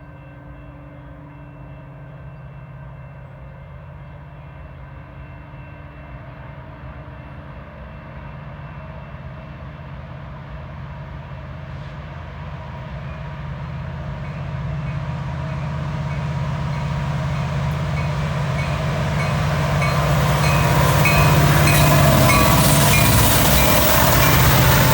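Diesel locomotives of a CN train approaching, the engines' low steady drone growing steadily louder as they come closer, with rail and wheel noise filling in over the last few seconds.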